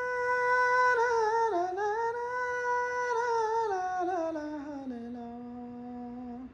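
A girl singing unaccompanied in the southern Saudi tarq style, a wordless drawn-out line: a long held note that wavers, then steps down bit by bit to a low held note that stops just before the end.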